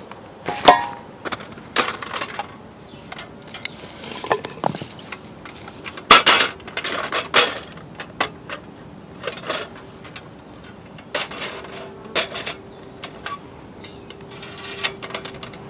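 Metal cookware and utensils clinking and clattering against a small wood-fired camp stove-grill, in a string of sharp knocks. One knock rings briefly, and there are longer noisy stretches around six and eleven seconds in.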